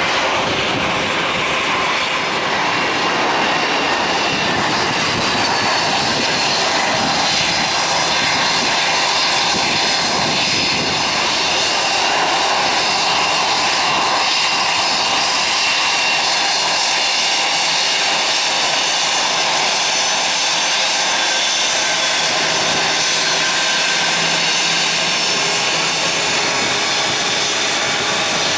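Jet airliner engines running loud and steady for the whole stretch: a continuous rush with several high, steady whining tones over it.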